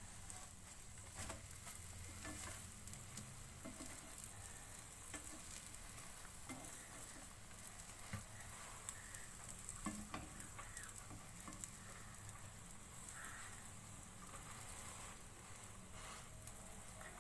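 Bread omelette frying in oil in a pan, sizzling steadily, with scattered small clicks and pops.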